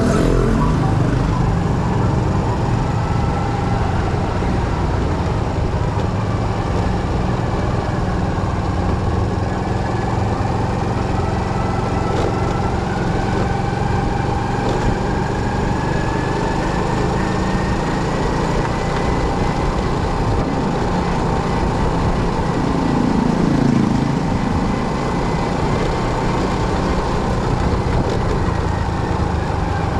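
Motorcycle engine running steadily, its pitch rising slowly partway through.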